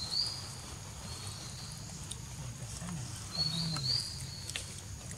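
A bird's short two-note chirping whistle, heard at the start and again about three and a half seconds in, over steady forest background noise with a few faint clicks.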